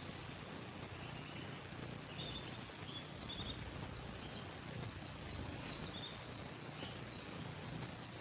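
Canary singing faintly: a few scattered chirps, then a quick run of repeated high notes in the middle, over a steady background hiss.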